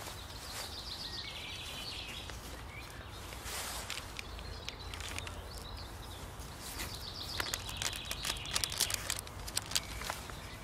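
A small bird singing a rapid trill twice, over a steady low outdoor background rumble, with light clicks and rustles of hands handling a stamp album's pages and sleeves, most of them in the second half.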